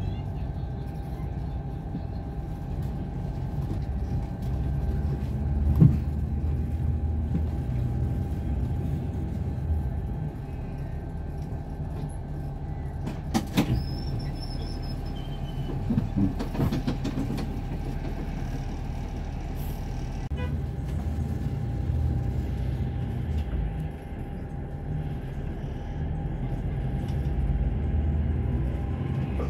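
A large engine runs steadily with a low rumble and a constant whine. A few sharp knocks or clanks come about six seconds in and again around thirteen and sixteen seconds.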